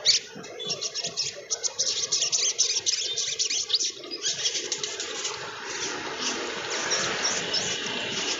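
Sunbird (sogon trotol) singing a rapid, high-pitched chattering song of quick twittering notes. The song turns into a denser, unbroken chatter about four seconds in.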